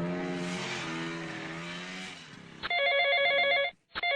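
A vehicle engine sound effect running steadily, then fading out about two seconds in. It is followed by an electronic phone ringtone trilling in two short rings, the second starting near the end.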